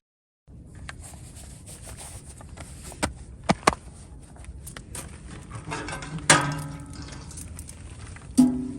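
Scattered small clicks and knocks of objects being handled, with a ringing clink about six seconds in and another near the end.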